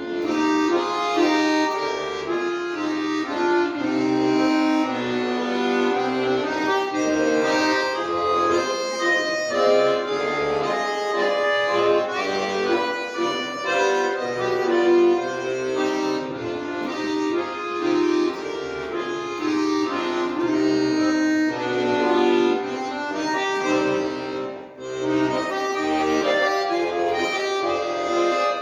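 Accordion playing a tune over sustained chords, with bass notes changing about every second and a brief break in the sound near the end.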